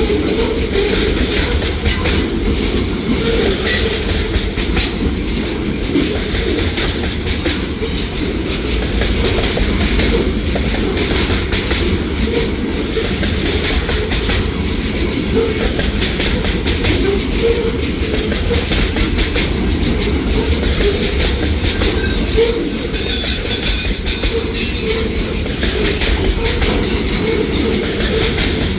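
Loaded freight train rolling past at close range, its railcars' steel wheels running steadily over the track.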